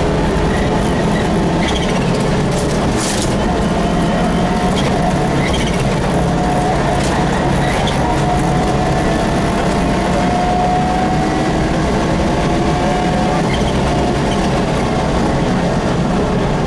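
Rally car engine running hard under load, heard from inside the cabin, loud and steady, with a few short knocks about three seconds in.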